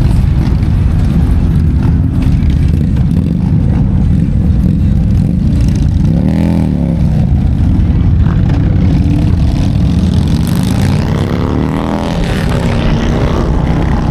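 Motorcycle engine running under way with a heavy rumble of wind and road noise. Its pitch rises and falls once about six seconds in, then climbs again as the bike accelerates past the ten-second mark.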